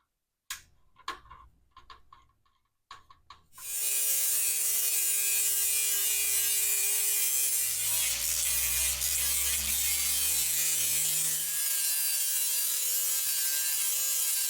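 A few light clicks of handling, then an angle grinder starts about three and a half seconds in and runs steadily with a high whine. It is grinding the edges of two 14-gauge sheet-metal panels screwed together to true them up, with a heavier rumble under load for a few seconds in the middle.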